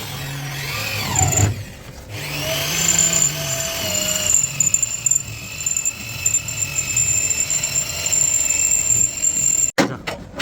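Handheld power tool running at high speed with a steady whine. A short burst rises and falls in pitch in the first second and a half. It then spins up again about two seconds in and runs steadily until it cuts off suddenly near the end.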